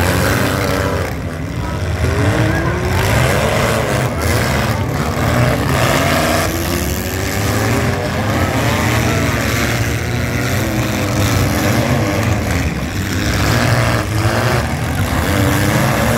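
Several compact demolition-derby cars' engines running and revving together, pitch rising and falling as they drive and ram each other, with occasional knocks of collisions over a steady rumble.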